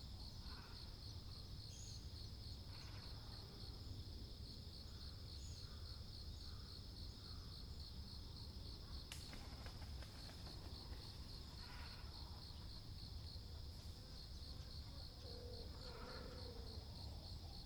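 An insect trilling steadily in a fast, even pulse at a high pitch, with scattered faint waterbird calls from the pond and a lower croaking call near the end.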